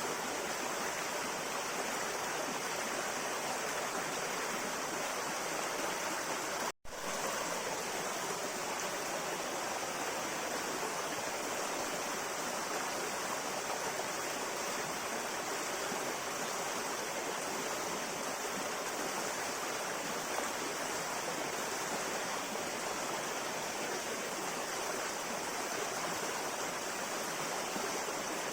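River water flowing, a steady rushing that cuts out for an instant about seven seconds in.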